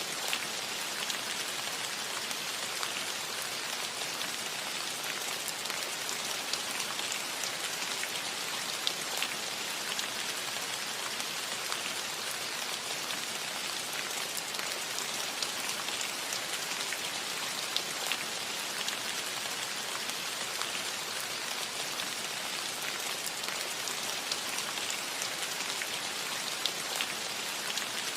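Steady rain falling on a roof: an even hiss with many individual drops ticking sharply through it.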